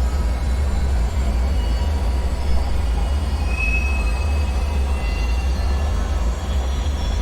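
Dark bunker ambience soundscape: a steady deep rumbling drone, with faint high metallic squeals and whines drifting over it, the clearest about halfway through.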